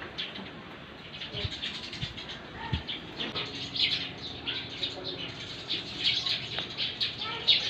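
Birds chirping, many short high chirps overlapping continuously over a low background hum.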